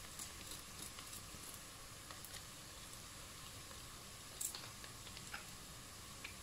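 Chopped onion frying quietly in butter and olive oil in a pot: a faint steady sizzle with scattered small crackles and a sharper click about four seconds in.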